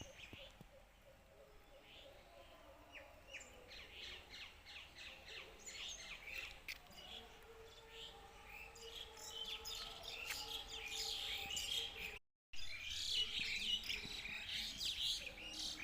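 A chorus of small birds chirping and twittering in quick, overlapping calls, growing busier and louder in the second half. The sound drops out completely for a moment near the end.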